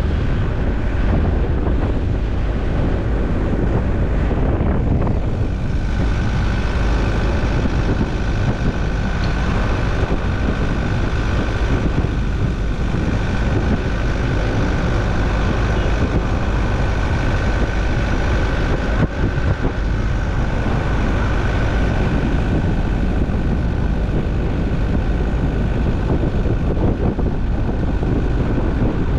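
A car on the move, heard from inside: a steady rumble of engine and road noise, with a thin steady whine that joins about six seconds in.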